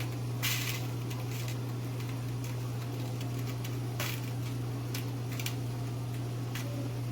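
Kitchenware clinking and knocking a few times, loudest about half a second in, as skewered chicken is handled over a stove flame, over a steady low hum.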